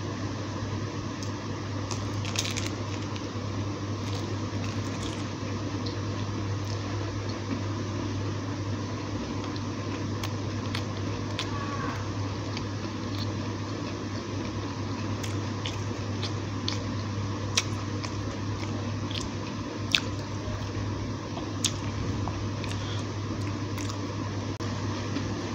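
Close-up eating of a fried potato samosa: wet, squishy chewing with scattered sharp clicks and crunches of the pastry, over a steady low hum.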